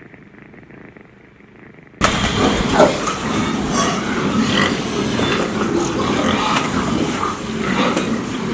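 A cat purring softly, then a sudden cut to a much louder clip of animals calling over a busy, noisy background.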